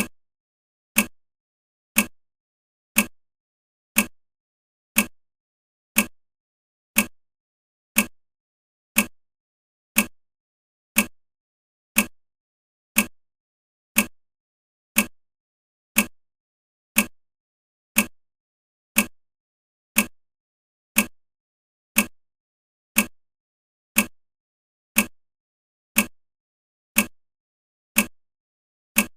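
Countdown timer ticking: short, sharp clock ticks, one every second, evenly spaced.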